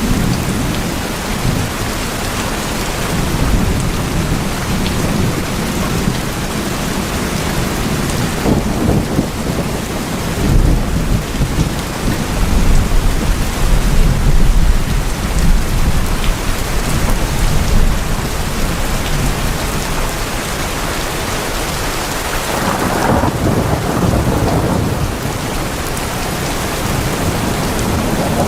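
Steady heavy rain drumming on a tin roof, with a low rumble of thunder swelling about a third of the way in and fading again.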